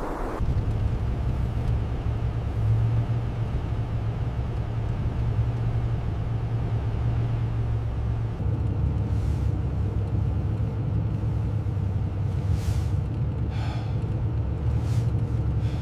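A steady low rumble, with a few short hissing gusts near the end.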